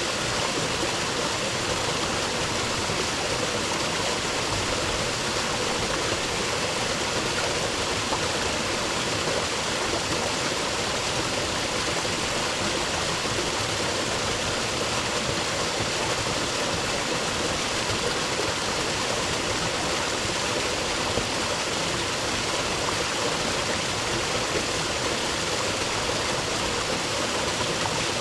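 Creek water running steadily over rocks, a constant rushing and gurgling.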